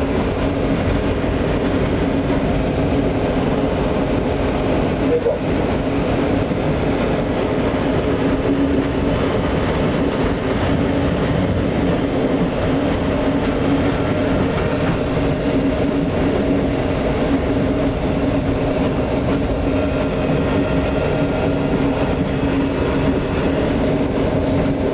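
A small locomotive's engine running steadily at speed, with the constant rumble of its wheels on the rails, heard from the cab.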